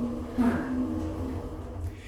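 Otis passenger lift running, a steady low hum from the car and its machinery, with a brief louder stir about half a second in.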